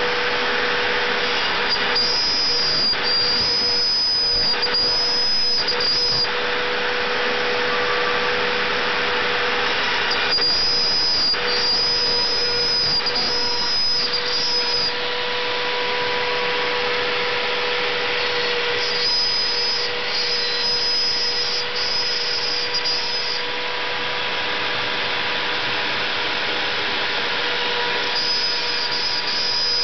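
Gantry CNC router's spindle running steadily while milling plywood. In stretches of about four seconds, coming back every eight to nine seconds, a high whine joins it.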